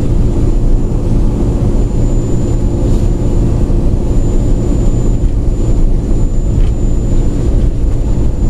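AirTrain monorail car running along its guideway, a steady loud low rumble heard from inside the cabin, with a thin constant high-pitched whine above it.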